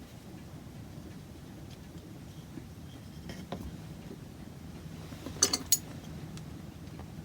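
Two sharp clinks close together about five and a half seconds in, after a few fainter taps, over a low steady hum.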